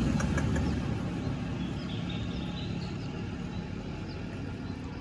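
Low rumble of a passing motor vehicle fading away, with a few short, faint chirps from caged birds.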